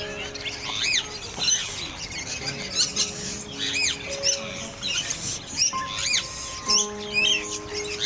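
Birds chirping and squawking: many short, high calls that rise and fall quickly, repeated every fraction of a second. Background music with long held notes plays underneath.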